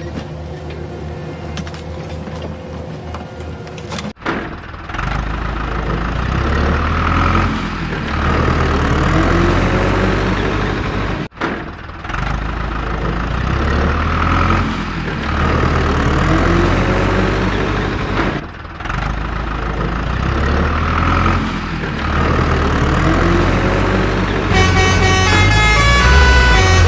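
Cartoon soundtrack of truck and machinery sound effects over a pulsing low beat, the same pattern looping about every seven seconds, with a plinking melody joining near the end.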